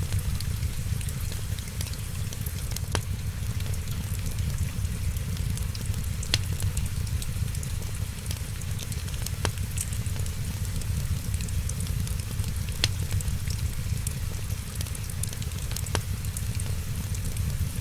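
Fireplace fire crackling: a steady low rumble under a fine hiss of small crackles, with a sharp pop about every three seconds.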